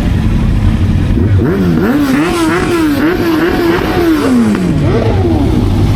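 Honda CBR650R's inline-four engine revving up. Its pitch climbs, holds high with small dips, then falls away near the end as the throttle closes, over a steady rumble of wind and road noise.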